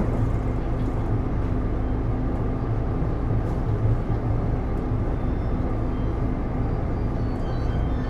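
Taipei Metro Series C301 train (Bombardier IGBT-VVVF traction) running, heard inside the car: a steady, continuous rumble of wheels and running gear. Faint high-pitched tones come in near the end.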